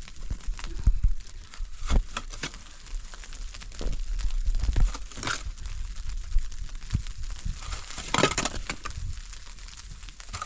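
Irregular crunching and crinkling with scattered knocks and clicks, and a louder burst of crunching about eight seconds in.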